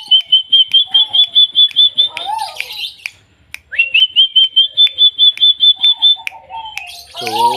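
A caged bird of the kind kept as 'tuwu' or 'lekkolek' calling in two bouts. Each bout is a quick rising note followed by a fast, even run of about eight high repeated notes a second, lasting a couple of seconds. Softer lower warbling and a few clicks sound between the bouts, and a brief voice comes in near the end.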